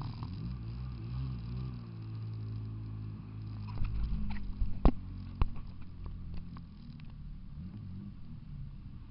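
An engine running at low speed, its pitch wavering, with a few sharp knocks about halfway through.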